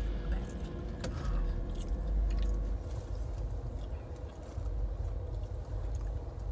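Close-up chewing and biting of fried food, over a steady low hum of the car's air conditioning.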